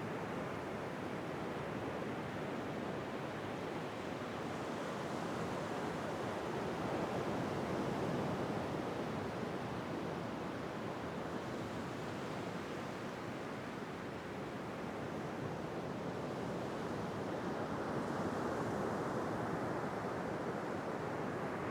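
Ocean surf: a steady wash of breaking waves that swells and eases slowly, growing louder about a third of the way in and again near the end.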